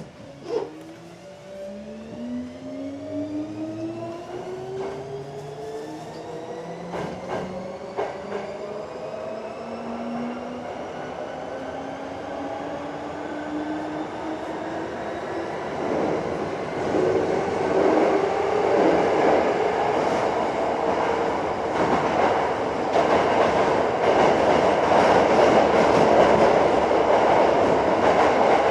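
Hankyu 7300 series field-chopper-controlled electric train accelerating from a stop, heard from inside the car. The traction motor whine rises steadily in pitch, with a few clacks over rail joints, while the running noise of the wheels grows louder and fills the second half.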